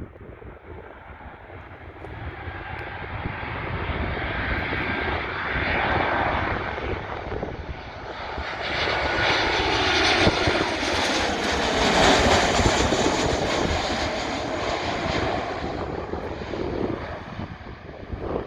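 Boeing 737-800 jet airliner passing on its landing, its CFM56 turbofan engines swelling to a loud peak about twelve seconds in and then fading as it moves away.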